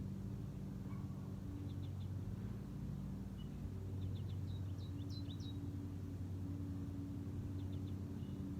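Small birds giving short high chirps in three brief bursts, about two seconds in, around four to five seconds in, and near the end, over a steady low hum from a distant engine or machinery.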